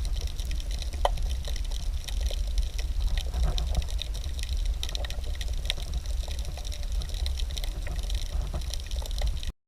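Water splashing and lapping in many small, irregular splashes over a steady low rumble of wind on the microphone; the sound cuts off suddenly near the end.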